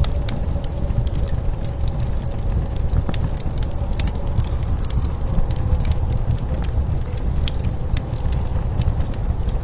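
Wood fire crackling with scattered sharp pops, over a loud, steady low rumble of blizzard wind. A faint, slightly wavering tone runs underneath.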